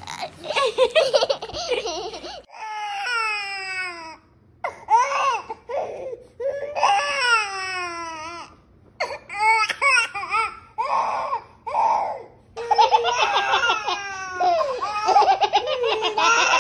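A baby crying in long wails that fall in pitch, with laughter just before and a stretch of laughing near the end.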